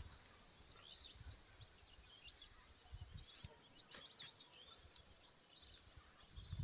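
Quiet outdoor ambience with birds chirping faintly: many short high chirps and a few quick rising whistles, over a soft low rumble.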